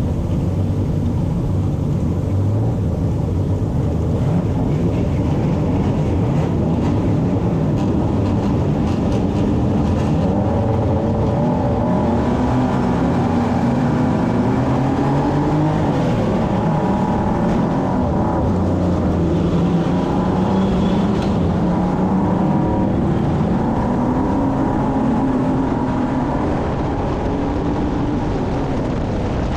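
Stock car engine heard from on board the car, its pitch rising and falling again and again as the throttle is opened and closed.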